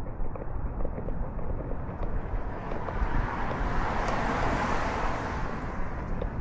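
A vehicle passing by, its noise swelling to a peak about four and a half seconds in and then fading, over steady wind and rubbing noise on a collar-mounted microphone.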